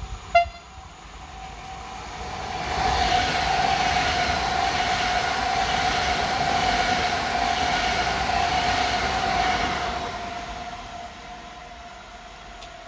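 A PKP Intercity Pendolino electric train passes through the station without stopping. A short, loud horn note sounds about half a second in, then the rush of the train builds, holds for about seven seconds as the cars go by, and fades as it recedes, with a steady high tone lingering underneath.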